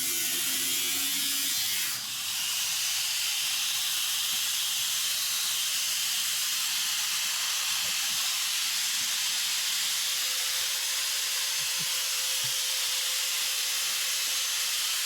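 Angle grinder cutting into an old galvanized steel water tank, a steady hissing grind with a brief break about two seconds in.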